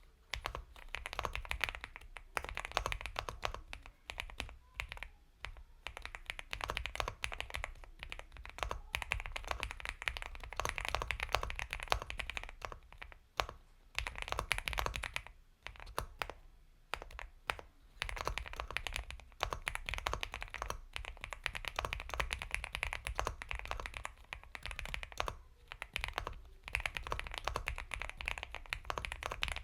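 Continuous fast typing on an Epomaker x Feker Galaxy 80 mechanical keyboard with Gateron Milky Yellow Pro linear switches: dense runs of soft keystrokes, broken by brief pauses.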